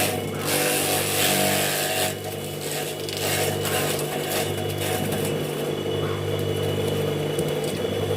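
Homemade grass chopper driven by a reused water-pump motor, running with a steady hum. A louder noisy burst comes from about half a second to two seconds in, with shorter bursts later.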